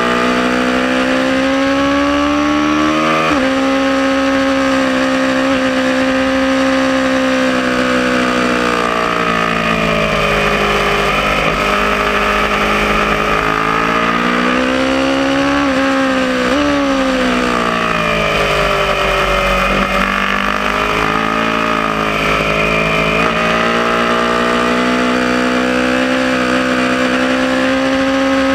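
Aprilia Tuono motorcycle engine pulling hard on track. Its pitch climbs, drops suddenly at an upshift about three seconds in, then falls and rises twice as the bike slows for corners and accelerates out, and climbs again near the end.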